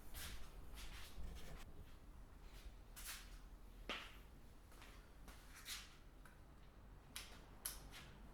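Faint, scattered rustles with a single sharper click about four seconds in.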